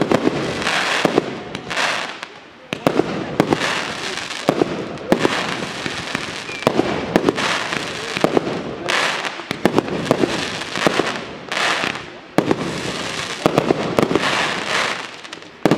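Professional fireworks display: aerial shells bursting in quick, irregular succession, one sharp bang after another, with a hiss trailing many of them.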